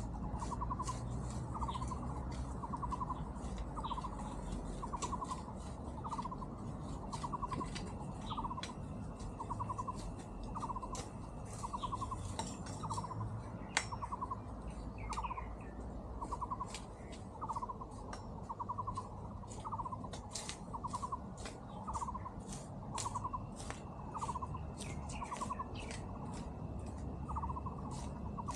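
A small animal's short trilled call, repeated over and over a little more than once a second, with scattered sharp clicks and a steady low hum underneath.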